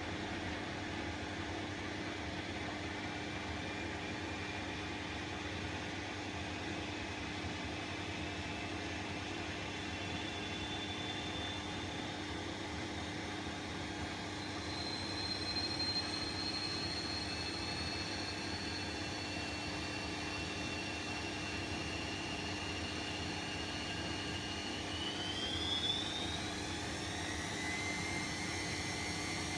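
Bosch WAE24162GB washing machine spinning, its motor whine climbing slowly in pitch as the drum speeds up, then rising more quickly about 25 seconds in, over a steady hum.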